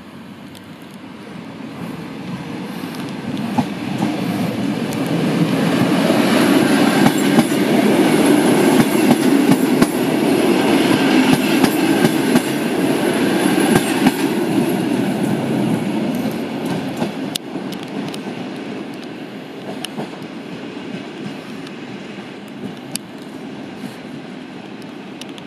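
EN57AL electric multiple unit running along the platform track, its wheels clicking over the rail joints. The sound swells as the train draws level, then fades gradually.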